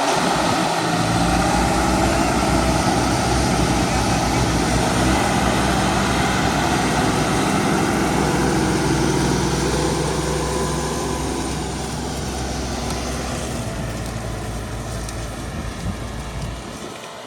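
Tractor engine running steadily, growing quieter after about ten seconds and dropping off near the end.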